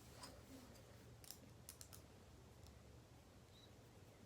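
Near silence with a few faint, sharp clicks, mostly between one and two seconds in: small parts of a butterfly knife trainer being handled while its screws are tightened.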